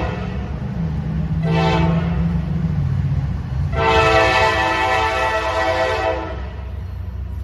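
Diesel locomotive's multi-note air horn sounding a short blast, then a long blast of about two and a half seconds, the closing part of the long-long-short-long grade-crossing signal, over the low rumble of the passing train.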